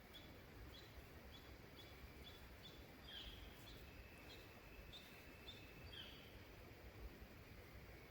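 Faint, short high chip calls from a bird, repeating about twice a second, with two slightly louder, down-sliding calls about three and six seconds in, over a quiet woodland hush with a faint steady high tone.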